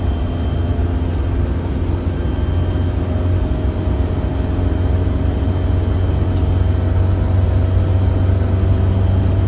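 Steady low rumble of a vehicle running, growing slightly louder, with a few faint steady tones above it.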